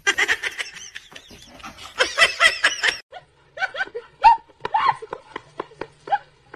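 Laughter with rapid high-pitched squeals, then a string of short separate animal cries, each bending in pitch.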